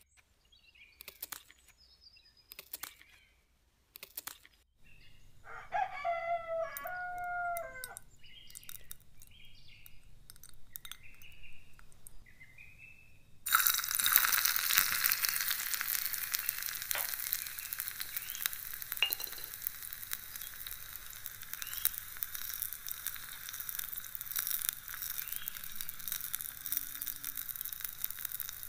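Small knife tapping and cutting on a wooden board, then a bird calls for a few seconds. About halfway through, chopped onion tipped into hot fat in a small metal pot starts sizzling loudly and keeps frying steadily.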